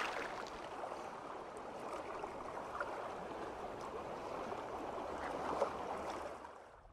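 Steady gurgling wash of water around the camera, with a few faint clicks, fading out near the end.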